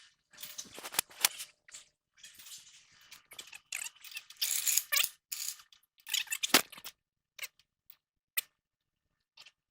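Hand tools working on steering linkage hardware: irregular metallic clicks, rattles and short scrapes, with one louder strike about two-thirds of the way through.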